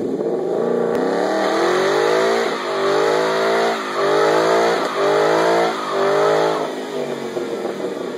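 Ford Mustang GT's 5.0-litre V8 revving high through a burnout, the rear tyres spinning and hissing on the asphalt. The revs surge and fall back about five times, then drop back to a lower, steadier run near the end.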